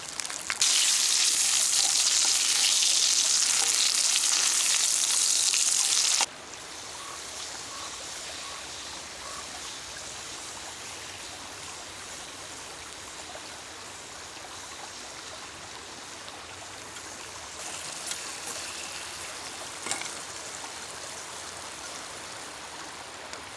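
Food sizzling loudly for about six seconds, starting and cutting off abruptly, then a much softer steady hiss with a few faint crackles.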